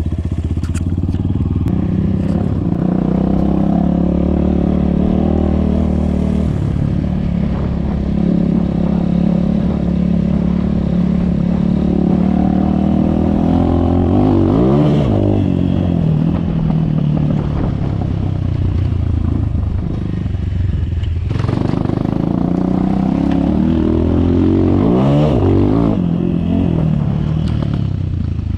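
Enduro dirt bike's engine running as it is ridden along a forest trail, its pitch holding steady for long stretches and rising and falling sharply as the throttle is worked, about halfway and again near the end.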